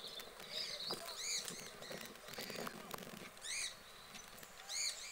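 Small birds chirping: short high calls that rise and fall, repeated every second or so and coming in quick pairs near the end. A soft low rustle runs underneath between one and three seconds in.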